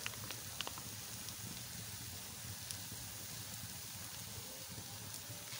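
Pasta with chicken and red sauce sizzling steadily in a metal pan over low heat, with a few faint ticks in the first second.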